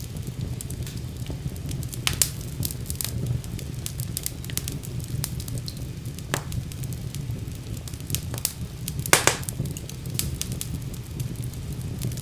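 Wood fire burning in a fireplace: irregular crackling and sharp pops over a steady low rumble, with louder snaps about two seconds in and about nine seconds in.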